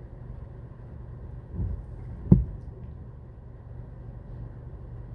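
Steady low rumbling background noise with two short knocks, a soft one about one and a half seconds in and a sharper, louder one just after.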